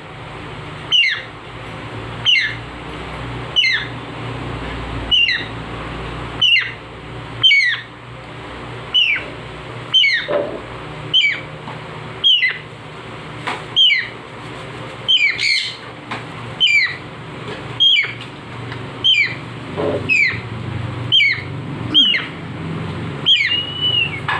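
Baby parrot giving short, falling squawks over and over, about one a second, under a steady low hum.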